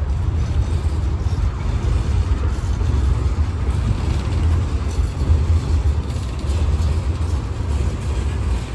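Freight train of tank cars and covered coil steel cars rolling slowly past close by: a steady low rumble of steel wheels on the rails.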